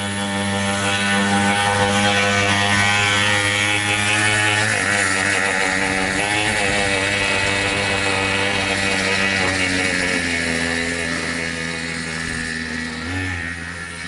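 Small 50cc two-stroke engine on a drift trike running hard, its pitch wavering up and down as the throttle changes, growing somewhat fainter near the end.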